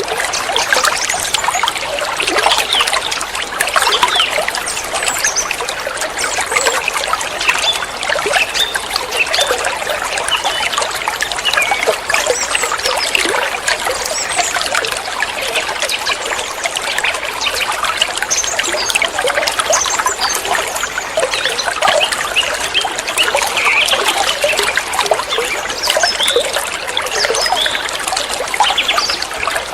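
Water trickling and gurgling steadily, a continuous bubbling flow like a small stream or fountain.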